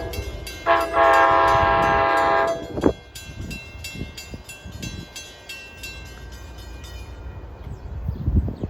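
A passing NJ Transit train's air horn sounds one steady chord of about two seconds, with a short tap just after it. A railroad crossing bell rings rapidly and stops about seven seconds in, and the low rumble of the train builds near the end.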